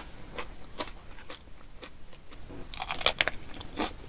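Close-miked crunching and chewing of a raw green chili pepper, an irregular run of crisp crunches that is densest and loudest about three seconds in.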